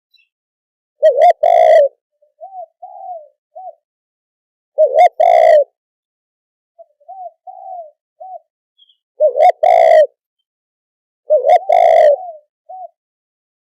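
Spotted dove cooing: four loud, double-note coos spaced two to four seconds apart, with short, softer coos in between. These are the calls used to lure doves.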